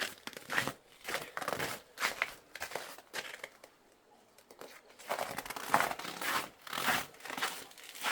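Footsteps crunching in deep snow, about two steps a second, pausing briefly mid-way.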